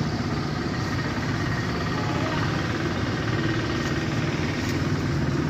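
A vehicle engine idling steadily, holding an even pitch and level.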